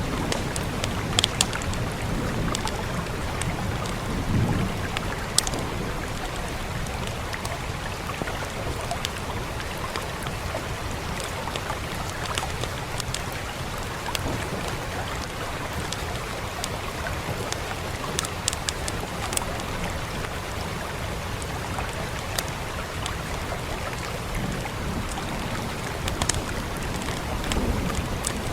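Steady rain hiss with scattered sharp pops and crackles from a wood fire, in small clusters. A soft low rumble comes and goes a few times.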